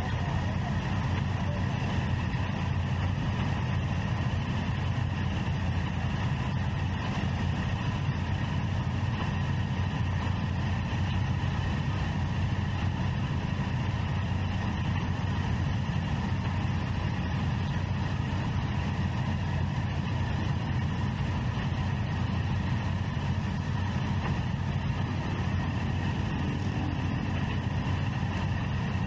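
Triumph Street Triple 675's inline three-cylinder engine running at a steady, even pitch with no revving, heard from the rider's seat.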